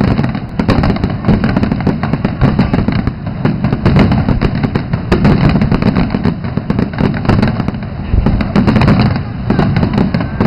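Fireworks display: aerial shells bursting in a rapid, unbroken barrage of bangs.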